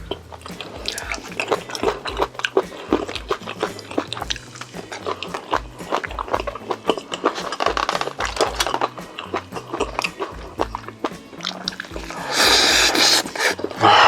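Close-miked chewing and crunching of crispy food, with many small wet clicks and crackles, over background music with a stepping bass line. A louder, brief crackling burst comes near the end.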